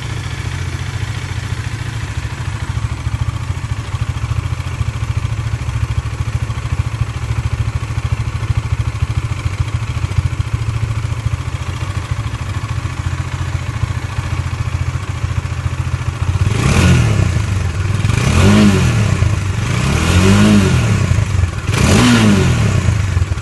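Bajaj Dominar 400's single-cylinder engine idling steadily through its stock exhaust, then revved four times in the last several seconds, each rev rising and falling in pitch and louder than the idle.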